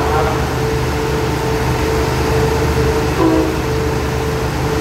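Diesel passenger train standing at a platform: a steady low engine hum with a constant higher tone above it. A short pitched sound cuts in briefly about three seconds in.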